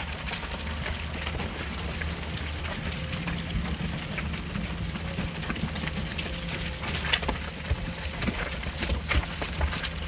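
Excavator's diesel engine running steadily, with a scattered clatter of stones and gravel striking, which grows denser and louder over the last few seconds.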